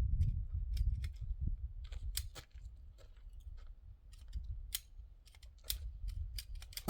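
Low wind rumble on the microphone with scattered light clicks and handling noises, then a loud AR rifle shot right at the very end, ringing out.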